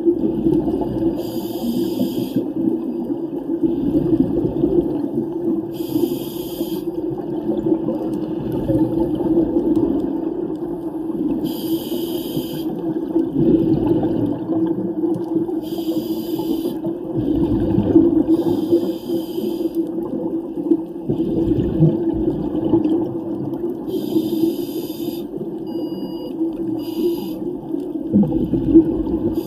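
Underwater sound during a scuba dive: a steady muffled wash, broken every four to five seconds by a hissing rush of exhaled regulator bubbles.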